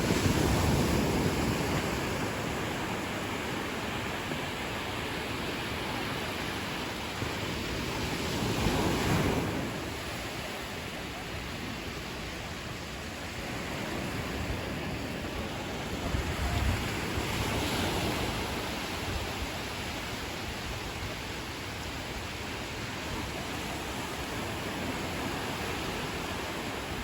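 Ocean surf washing steadily on a beach, with waves breaking in louder surges about every eight seconds.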